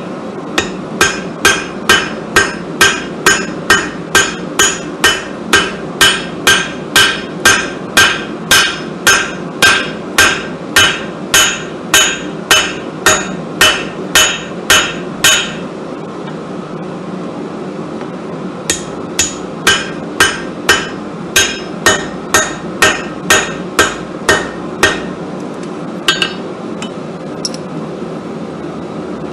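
Hand hammer striking hot damascus steel on an anvil in steady, ringing blows about two a second, stopping for a few seconds, then resuming for another run, with a couple of light taps near the end. A steady low hum runs underneath.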